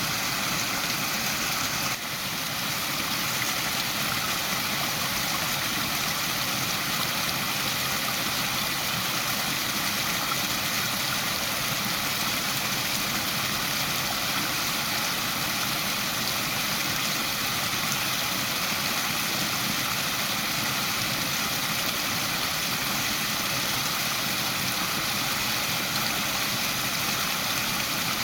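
Waterfall: a steady, unbroken rush of falling water, with a brief small dip in level about two seconds in.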